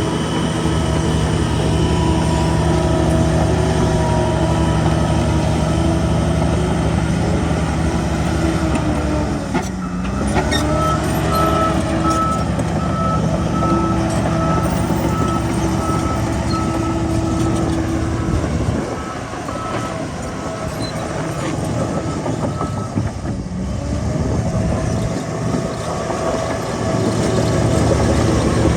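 Heavy diesel earthmoving machine running steadily. About a third of the way in its revs dip and climb again. A reversing alarm then beeps at an even pace until about two-thirds through.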